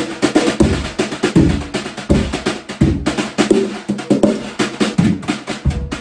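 A birch cocktail drum kit played in a steady rhythmic groove: deep thumps from the combined kick and floor tom drum, snare and tom hits, and cymbals ringing over the top. The drums are tuned and damped with padding and rings.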